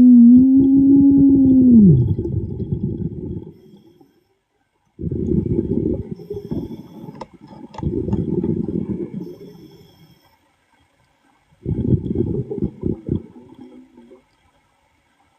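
A diver's exhaled breath bubbling out of a breathing regulator underwater, in three rumbling bursts a few seconds apart. The first burst carries a low tone that slides down in pitch about two seconds in.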